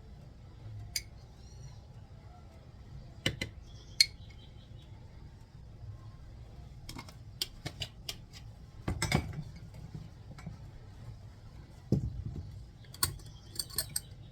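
Kitchen utensils, dishes and cutlery, clinking and knocking now and then while food is being seasoned, with one sharp knock about four seconds in the loudest.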